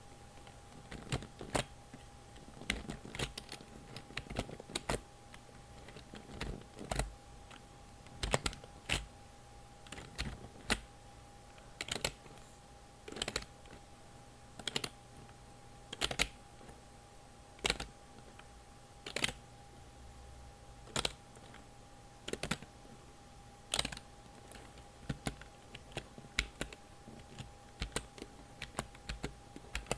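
Computer keyboard keys clicking, pressed or tapped one or a few at a time at an unhurried, irregular pace, with a faint steady hum underneath.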